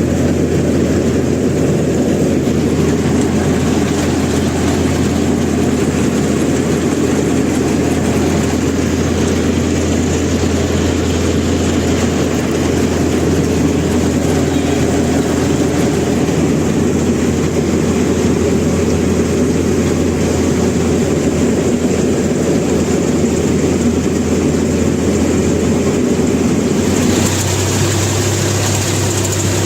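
Mini combine harvester's engine running steadily with a deep, even hum. Near the end the sound changes slightly, with the low hum shifting and more hiss coming in above it.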